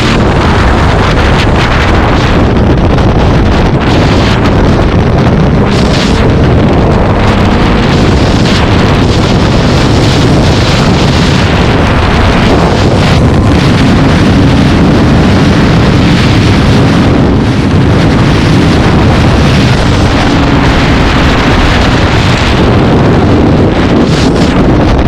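Heavy wind buffeting the microphone of a vehicle moving at speed, a loud steady rushing, with an engine running faintly underneath.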